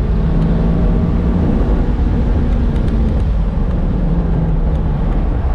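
McLaren 570S's twin-turbo V8 running steadily at high speed on track, heard from inside the cabin over heavy road and wind rumble.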